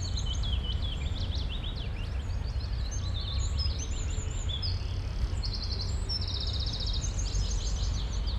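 Many small birds chirping and twittering, with short sweeping calls and a couple of fast buzzy trills around the middle, over a steady low background rumble.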